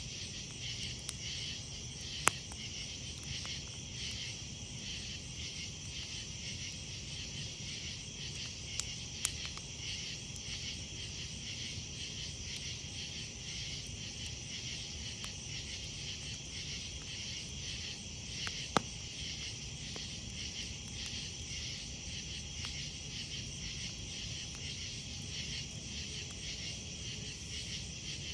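A steady night chorus of insects chirping, over a campfire, with three sharp pops from the burning wood: one about two seconds in, one around nine seconds and one near nineteen seconds.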